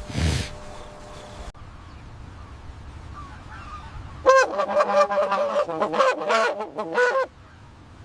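An animal's rapid run of repeated pitched calls, about three seconds long, beginning about four seconds in, after a short noisy burst at the very start.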